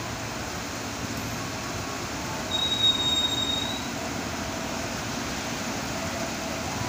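JR 205 series electric commuter train rolling slowly into the platform as it brakes to a stop, with a steady low rumble. A brief high-pitched squeal rings out for about a second, starting about two and a half seconds in.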